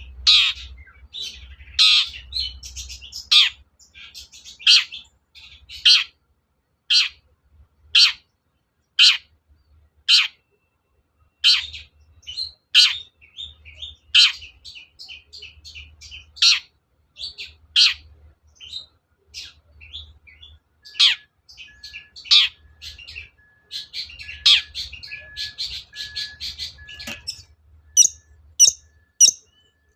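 Long-tailed shrike (cendet) calling in short, loud notes about once a second, with denser chattering runs in between. Near the end the calls switch to a quicker series of higher, thinner notes.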